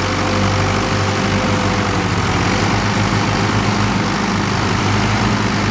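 Tractor engine running steadily at an even speed, with no change in pitch.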